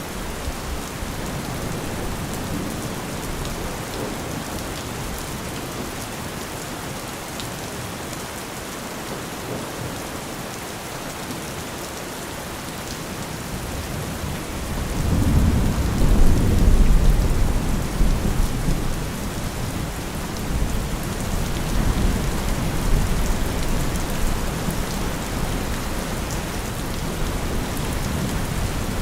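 Steady rain falling, with a low rumble of thunder that swells about halfway through, peaks a couple of seconds later and slowly dies away.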